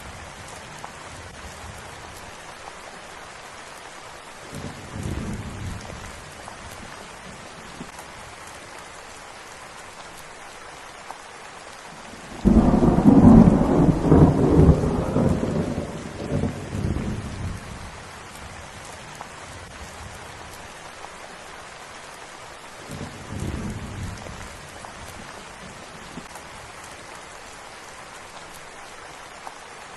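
Steady rain with rolls of thunder. The loudest peal breaks suddenly about twelve seconds in and rumbles away over four or five seconds, and fainter rumbles come around five seconds and around twenty-three seconds in.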